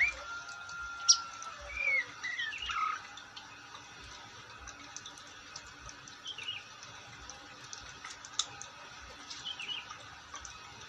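Long-tailed shrike (cendet) singing: a quick run of whistled notes that glide up and down, with one held whistle and a sharp click about a second in, busiest in the first three seconds and then only occasional short chirps.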